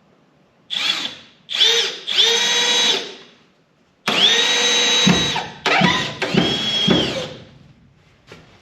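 Milwaukee M12 cordless hammer drill/driver whining in six short trigger bursts, each spinning up to a steady pitch, as it drives a stubborn screw into a wooden board.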